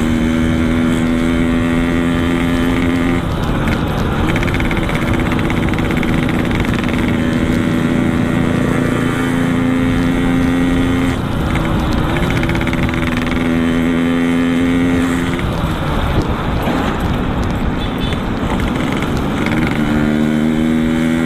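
Yamaha RX-King's two-stroke single-cylinder engine, breathing through a Boban C33 aftermarket exhaust, running at steady revs while riding. Its tone drops away a few times as the throttle is eased and rises again near the end. Steady wind rush lies underneath.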